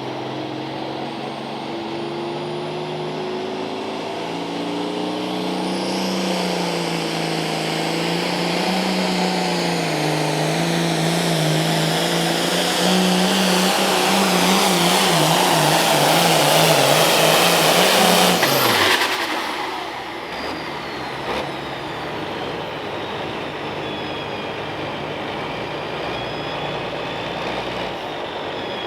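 A Case IH pulling tractor's diesel engine runs hard under load with a high turbo whistle, growing louder. About 18 seconds in, the engine note falls sharply as the throttle comes off, leaving a lower running sound.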